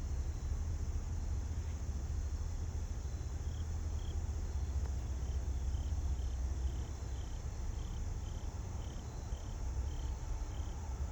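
Steady low rumble, with an insect, likely a cricket, chirping faintly about two or three times a second starting a few seconds in.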